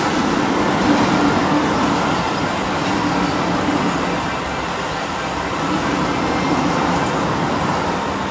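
Keio Line electric commuter train running past close by along the station platform: a steady rumble of wheels on rails with a faint motor hum, easing off slightly near the end as the cars move away.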